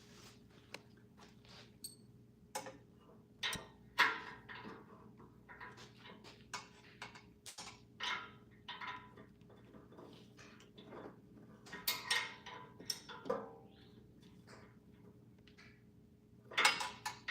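Irregular metal clinks and knocks from hand tools and metal parts being handled while working on an engine's oil pan, with a faint steady hum underneath.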